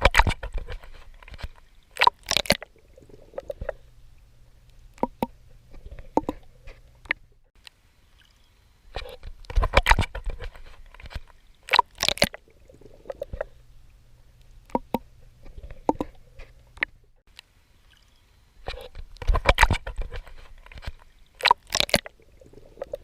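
Water splashing and sloshing from swimming strokes, with sharp splashes bunched in groups that come round about every ten seconds. A faint low hum sits under the quieter stretches between.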